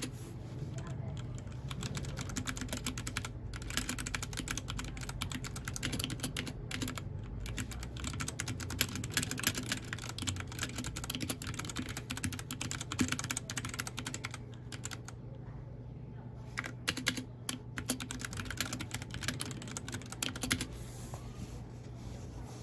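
Mechanical keyboard being typed on in quick, dense runs of key clicks. The typing breaks off briefly about two-thirds of the way through, resumes in short bursts, and then thins out near the end.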